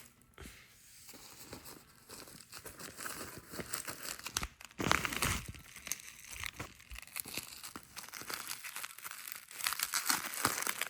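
Packaging crinkling and tearing as it is handled, in irregular bursts of crackle that grow louder about halfway through and again near the end.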